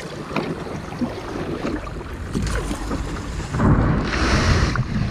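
Wind buffeting the microphone over moving river water while kayaking, with a louder rush of wind noise about four seconds in.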